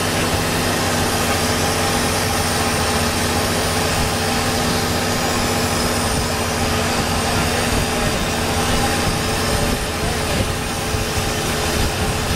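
Long-tail boat's four-cylinder turbocharged diesel, a salvaged pickup-truck engine, running steadily at speed, heard from aboard the boat over a constant rushing noise.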